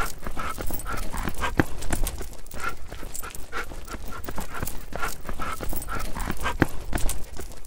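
German Shepherd dog panting with its mouth open: quick, even breaths about two a second, with short clicks between them.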